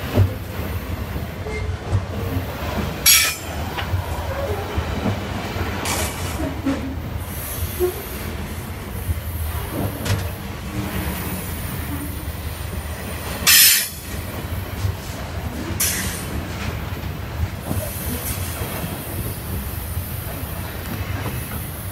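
Long freight train rolling past, its wagon wheels making a steady low rumble on the rails. Four brief high-pitched screeches stand out over the rumble.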